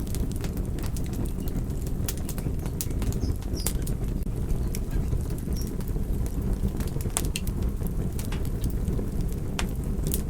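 Fire crackling: irregular sharp pops and snaps, several a second, over a steady low rushing of the flames.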